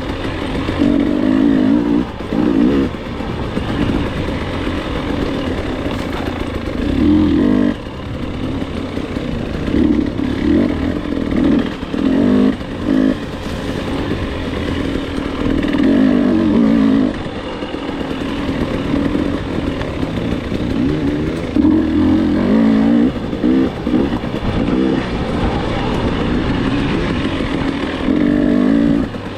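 Dirt bike engine revving hard and backing off again and again as it is ridden, its pitch rising and falling every second or two, over a steady rushing noise.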